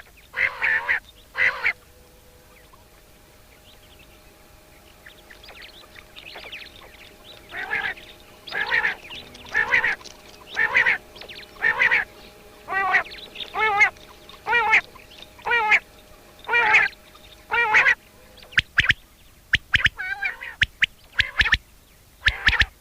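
Birds calling: a few calls at the start, then, after a pause, a run of about a dozen calls at roughly one a second. Near the end come quick short sharp notes.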